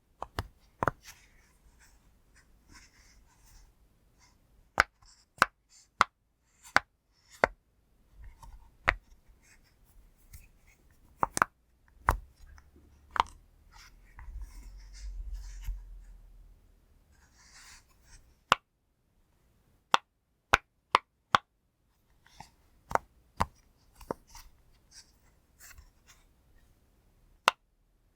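Bubbles of a silicone pop-it fidget toy being pressed one by one: sharp single pops at an uneven pace, a few seconds apart at times and in quick runs at others, with faint handling noise between them and a low rumble about halfway through.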